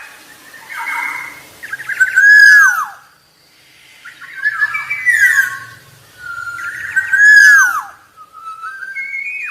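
Black-naped oriole singing a series of short, fluty whistled phrases, each with notes that slide up and down in pitch. The loudest phrases come about two seconds in and about seven seconds in.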